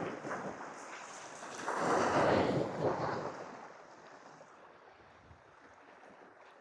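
Sea waves washing against shore rocks, one surge swelling about two seconds in and then fading to a quieter hiss.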